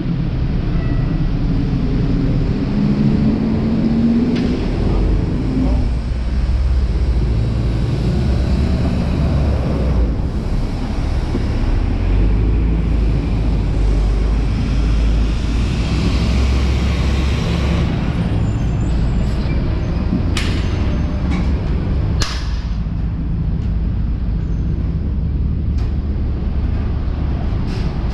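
City street traffic with a steady low rumble of passing vehicles. A few sharp clicks or knocks come about twenty and twenty-two seconds in.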